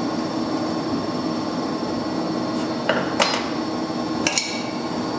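Steady hum of running machinery in a pump room, with three or four sharp metallic clinks of tools against metal in the second half.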